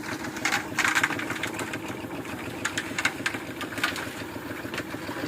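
A small engine running steadily on construction machinery for concrete work, with scattered sharp scrapes and clinks over it, loudest about a second in.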